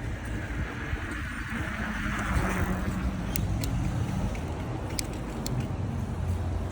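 Street traffic heard from a bicycle, with wind rumble on the microphone. The hiss of a passing vehicle swells to a peak about two seconds in, then fades. A few sharp clicks follow.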